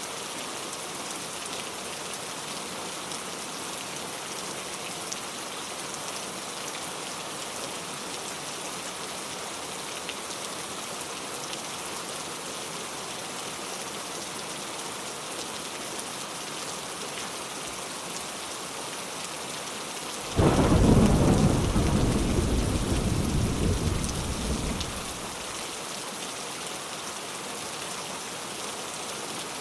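Steady rain falling, with a single clap of thunder breaking in suddenly about two-thirds of the way through and rumbling away over about five seconds.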